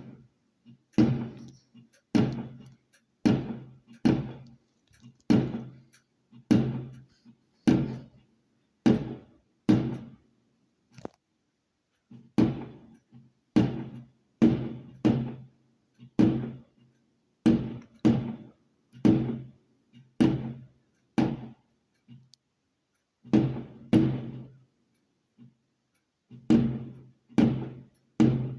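Firework barrage cake firing its shots in steady succession, about one and a half thuds a second, each a sharp launch thump with a short low ring, with brief pauses between runs.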